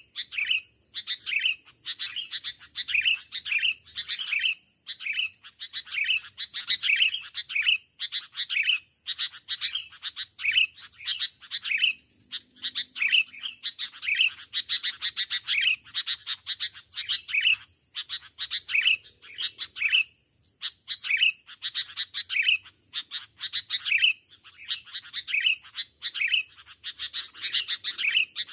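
Sooty-headed bulbuls calling, short bright chirping phrases repeated about every half second to a second, with a few brief pauses.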